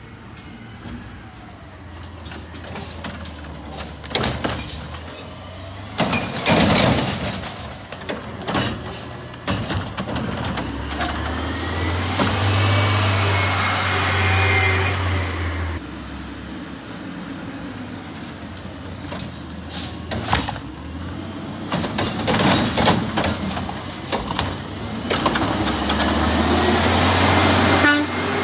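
Peterbilt 520 garbage truck with a Heil Curotto-Can, its engine revved hard to drive the hydraulics while the arm lifts and dumps recycling carts. Loud clattering bangs of carts and lids slapping come in two bursts, in the first third and again near the end, with the engine rising in the middle.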